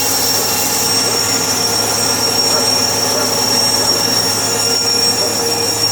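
Sawmill running: a steady mechanical drone with a constant high-pitched whine and a low hum.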